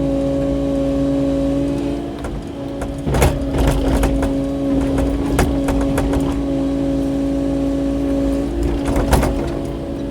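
Kubota KX080-4 excavator's four-cylinder diesel engine running at a steady pitch. The excavator's bucket knocks and clatters against rock several times about three to five seconds in, and again near the end.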